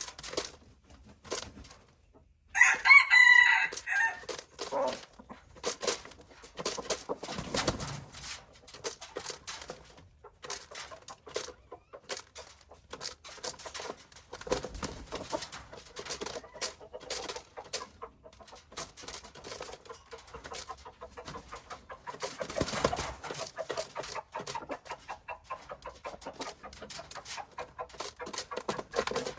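A rooster crowing once, loud, about three seconds in, followed by chickens clucking softly amid many scattered clicks and taps.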